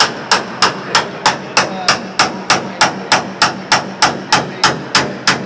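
Hammer blows on Triumph TR7 steel bodywork in a steady rhythm of about three sharp strikes a second, as in panel beating.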